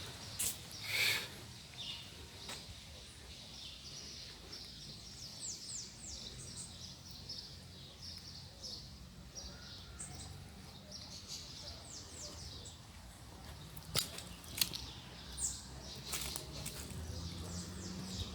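Small birds chirping over and over, many short high notes that fall in pitch, over a low steady hum, with a few sharp clicks about fourteen seconds in.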